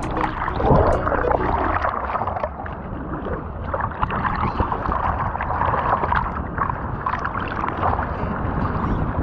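Seawater rushing and splashing in the surf, as heard close to the water.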